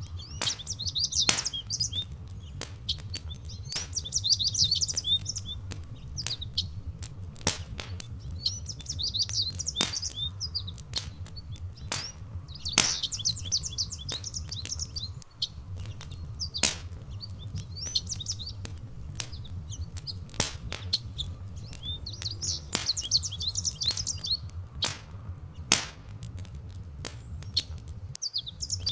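A songbird sings short, quick warbling phrases every few seconds over a crackling fire that gives sharp, irregular pops. A steady low rumble runs underneath.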